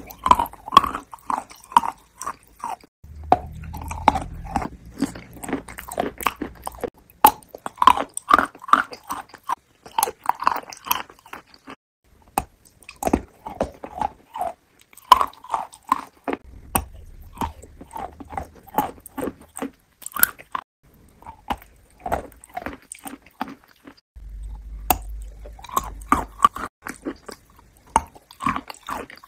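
Close-miked wet mouth sounds of chewing and squishing a thick, soft grey paste: irregular sticky smacks and clicks throughout, with a low rumble underneath at a few points.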